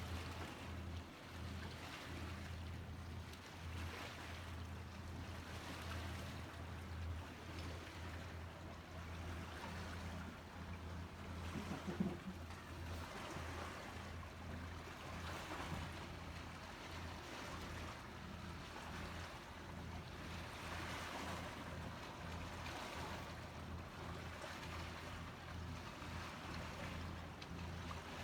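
Lake water lapping at the shore in soft swells that wash in every couple of seconds, over a steady low hum, with one short knock about twelve seconds in.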